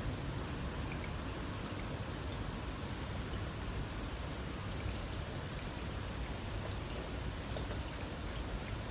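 Light rain falling steadily, with scattered drops ticking. A faint, high, steady insect trill sounds through it and fades out near the end.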